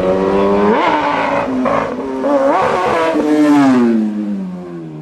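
Sportbike inline-four engine revving up sharply twice, then a long falling pitch as the revs drop off and it slows down.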